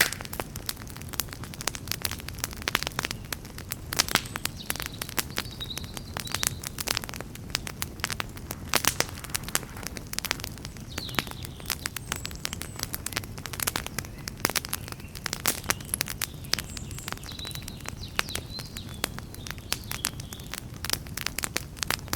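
Campfire crackling: dense, irregular pops and snaps of burning wood over a steady low rumble of the flames.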